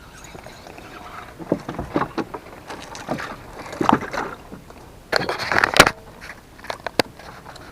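Irregular knocks, clicks and rustling from handling gear on a small boat, with a louder rustling burst about five seconds in.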